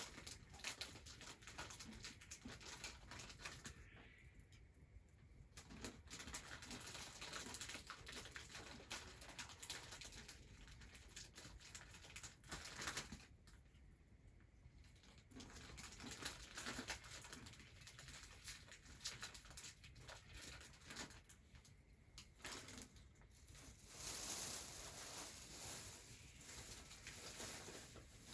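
Faint, scattered clicks and light pattering over a low hiss, with a few sharper ticks.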